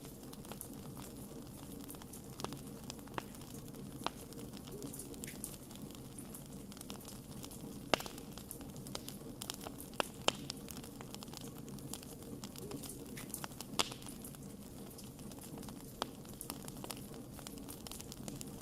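Wood campfire crackling: scattered sharp pops and snaps over a low steady rush of burning, the loudest snaps about eight, ten and fourteen seconds in.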